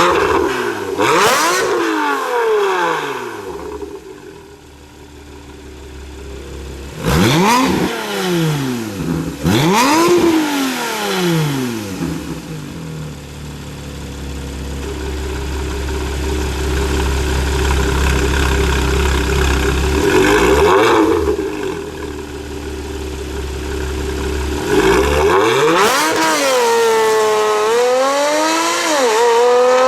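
Porsche 997.2 Carrera S 3.8-litre flat-six through an iPE valvetronic cat-bypass exhaust, revved in sharp blips that fall back to a steady idle between them. Near the end the revs climb in a long pull, drop briefly as if for a gear change, and climb again.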